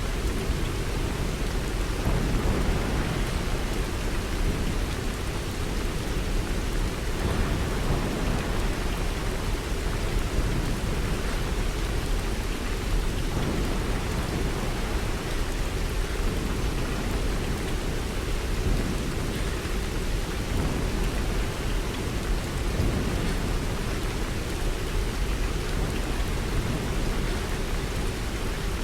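Steady rain: a continuous, even hiss of falling rain with a deep low rumble underneath.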